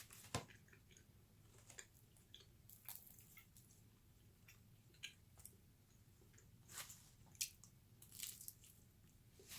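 Faint chewing of pizza, with a scattering of short, soft mouth clicks at irregular intervals.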